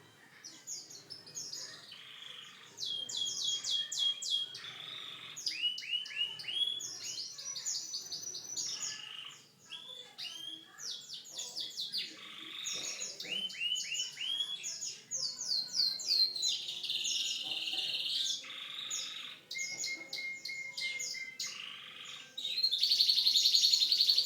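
Domestic canary singing a long, continuous song of fast repeated trills and rolls, switching to a new phrase every second or two. Near the end it holds a steady whistled note, then breaks into a louder, very rapid trill.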